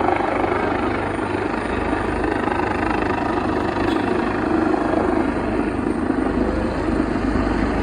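Helicopter running steadily, its rotor and engine noise loud and even.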